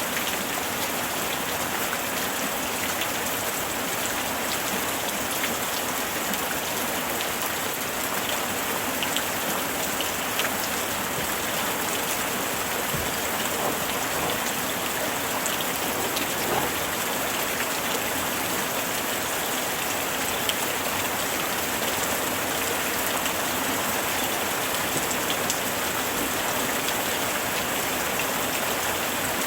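Steady summer rain falling, a constant hiss of rain with scattered individual drops ticking on surfaces.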